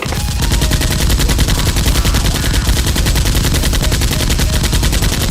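Sustained automatic gunfire: a long, unbroken burst of rapid, evenly spaced shots, many a second.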